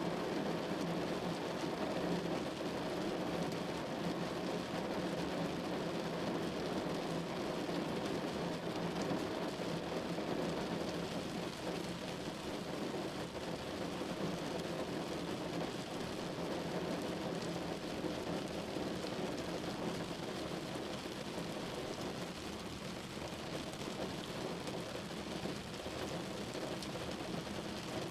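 Steady rain falling on a window, an even hiss that eases slightly in the second half.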